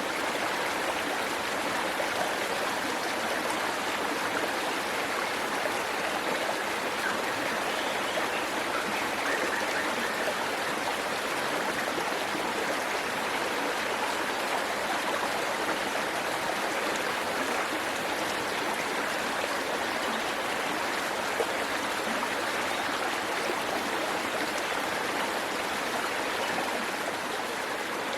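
Waterfall water rushing steadily, an even unbroken noise of falling and flowing water.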